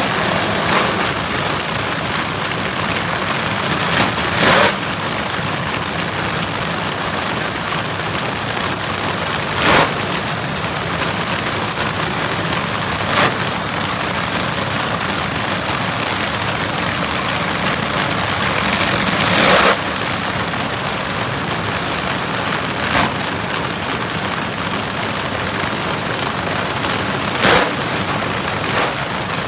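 A car being driven: a steady run of road and wind noise with the engine underneath. A few short knocks or bumps stand out at irregular moments, the loudest about two thirds of the way in.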